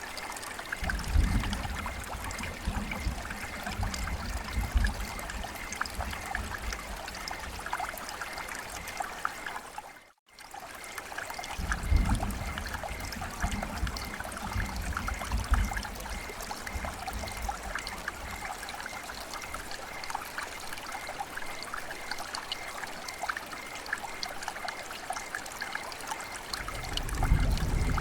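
Rain and running water trickling and splashing steadily, with many fine drips and low rumbling swells at times. The sound cuts out briefly to silence about ten seconds in, then resumes.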